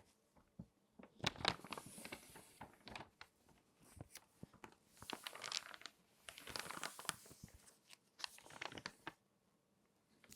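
Glossy magazine pages being folded and handled, giving bursts of sharp paper crinkles and crackles with short quieter pauses between them, and a quiet stretch near the end.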